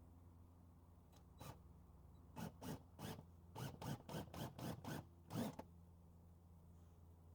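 About ten short, rough scraping strokes in an uneven run over about four seconds, the last one the loudest.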